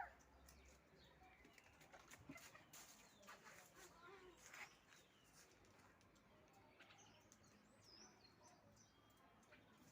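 Near silence: faint outdoor background with a few soft clicks and a faint high bird chirp.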